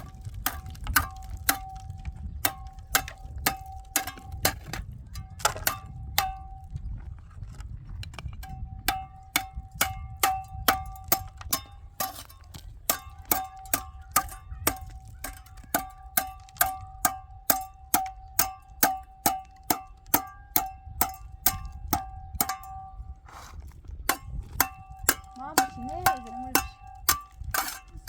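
Metal clanking with a bell-like ring, struck about twice a second in a steady rhythm, with a few short pauses.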